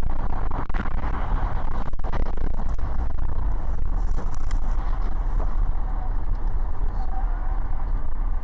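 Car driving noise as picked up by a dashcam: a steady low rumble of engine and road, with a few brief knocks.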